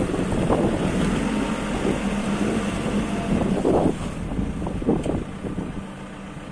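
Engine of an MST M644 Plus backhoe loader running steadily, with wind buffeting the microphone.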